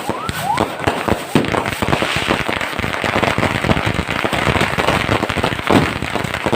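Fireworks going off in a dense, continuous crackle of rapid bangs and pops, with a rising whistle about half a second in.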